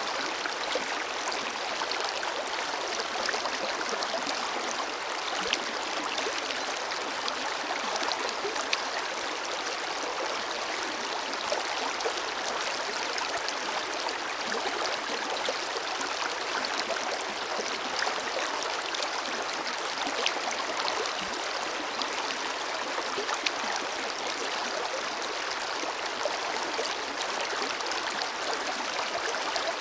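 Forest river water flowing steadily, a continuous rushing babble with fine splashing detail.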